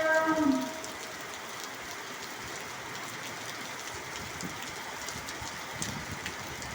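Steady patter of falling rain, an even hiss with faint scattered drips. In the first second the end of a long, low moo slides down in pitch and fades.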